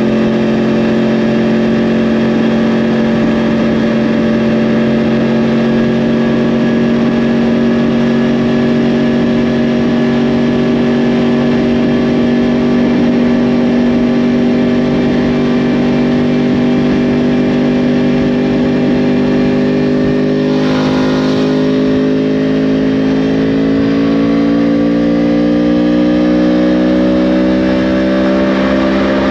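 2010 Yamaha R1's crossplane inline-four with a Yoshimura exhaust, running under way at steady revs, then pulling with revs climbing gradually over the last several seconds. A short rush of noise comes about two-thirds of the way through.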